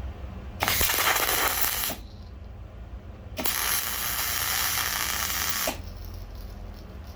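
Two bursts of harsh, hissing machine noise from a workshop tool, the first about a second long and the second about two seconds, over a steady low hum.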